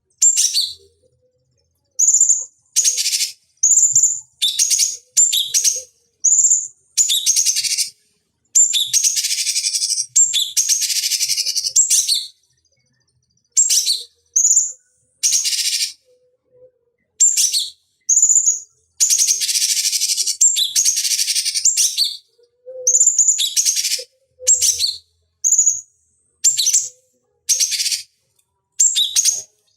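Cucak cungkok bird calling in quick bursts of high chirps, some brief and some running into longer scratchy chattering phrases of a second or more, with abrupt silent gaps between them.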